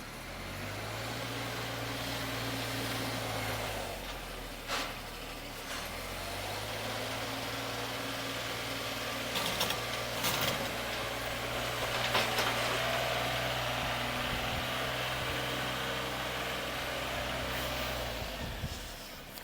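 Mahindra 2615 compact tractor's diesel engine running under load while pushing snow, its pitch sagging for a couple of seconds before it picks back up. A few short clanks come through over it.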